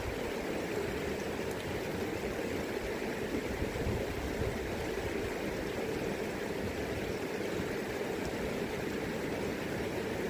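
River current rushing steadily, an even, unbroken sound of flowing water.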